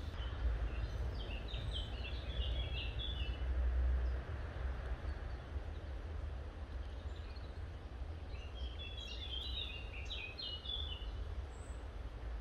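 A bird singing twice, each time a quick run of high chirping notes lasting about two seconds, near the start and again about two thirds of the way through, over a steady low rumble.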